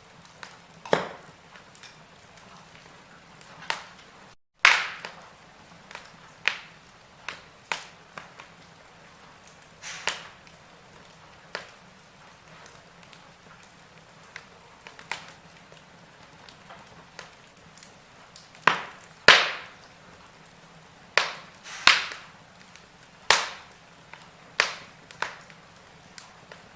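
Wood fire in a fireplace crackling: irregular sharp pops and snaps, some loud, over a faint steady hiss. The sound drops out for an instant about four and a half seconds in.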